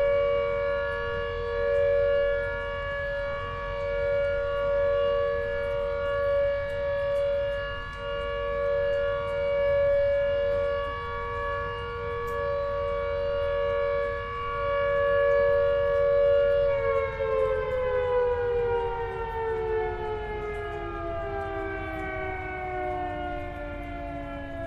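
Outdoor tornado warning siren sounding a steady two-tone wail that swells and fades in loudness. About two-thirds of the way through it starts winding down, its pitch sliding slowly lower.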